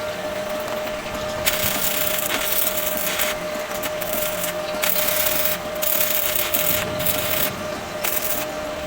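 A power tool running with a steady whine. From about a second and a half in, it works the material in rough, hissing passes with short breaks, stopping shortly before the end.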